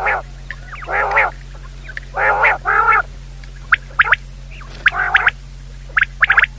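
Bird calls: short nasal calls repeated about once a second, then from about four seconds in quick clusters of three or four sharp chirps, over a steady low hum.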